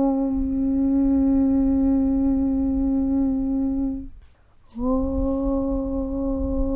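A chanted 'Aum' (Om) hum: one steady, low held tone over a low rumbling noise. About four seconds in it stops, and after a short gap a new 'Aum' begins with a slight upward slide into the same pitch.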